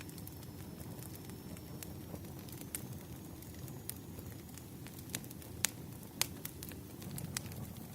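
Wood campfire crackling: irregular sharp pops and snaps, the two loudest a little past halfway, over a steady low rumble of the burning fire.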